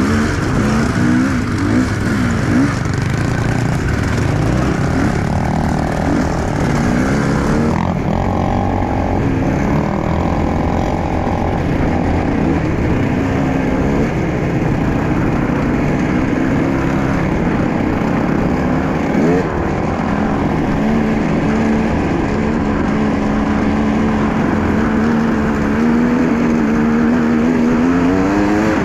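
Enduro motorcycle engine running as the bike is ridden, its revs rising and falling with the throttle, holding steadier in the second half and climbing again near the end.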